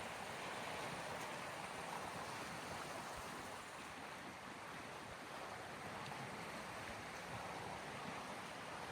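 Small sea waves washing steadily against the shore, an even rushing with no distinct breakers.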